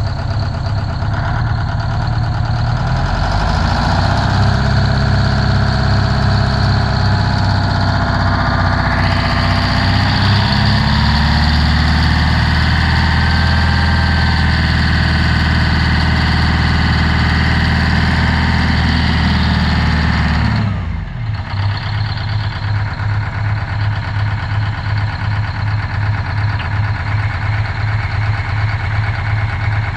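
Ford 8000 dump truck engine running at raised revs, climbing in the first few seconds and holding steady. About two-thirds of the way through it drops suddenly back to an even idle.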